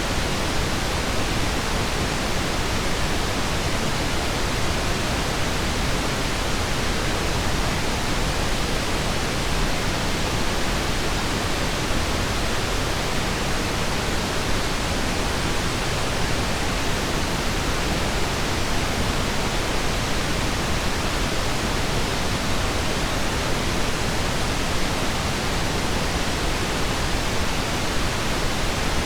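Steady synthetic pink noise: an even hiss with no tones, ticks or changes.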